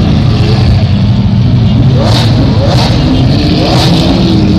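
Lamborghini Aventador V12 engines running loudly, revved in three short rising blips from about two seconds in as a car pulls away.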